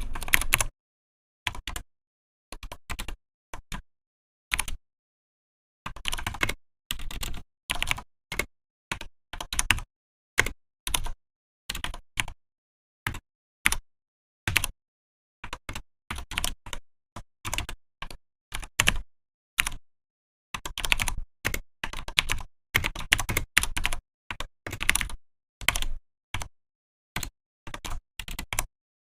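Typing on a Vortex PKX-1040 Type F keyboard: bursts of rapid keystrokes broken by short pauses, with dead silence between the bursts.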